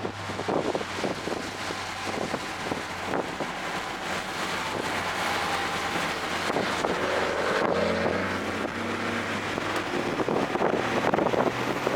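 Onboard sound of a 2024 Toyota GR Corolla's turbocharged three-cylinder engine driven hard on track, under heavy wind noise and road roar. The engine note shifts in pitch about seven to nine seconds in.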